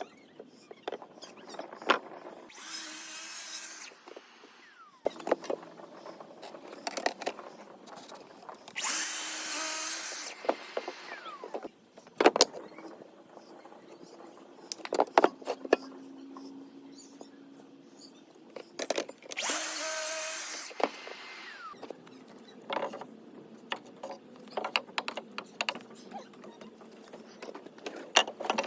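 Cordless power driver driving screws into wood in three short bursts, with knocks and clicks of boards and tools being handled in between.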